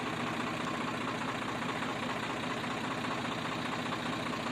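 Swaraj 855 tractor's diesel engine running steadily, with an even, rapid firing beat.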